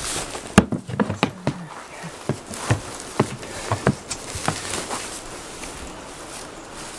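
Rain dripping: irregular single drops tapping on a hard surface, the loudest about half a second in, over a faint steady hiss of rain.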